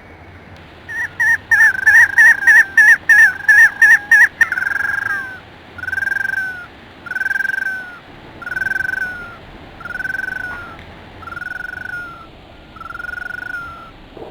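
An animal calling: a quick run of about a dozen short, high calls, then slower, longer calls about one a second that grow fainter.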